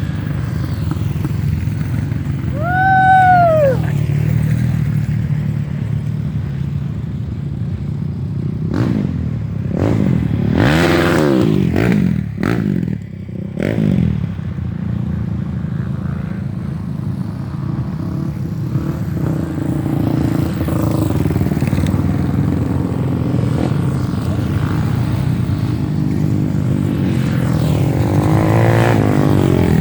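Off-road trail motorcycle engines running steadily, revved up and down in repeated surges, with a cluster of revs about ten to fourteen seconds in and another rising rev near the end.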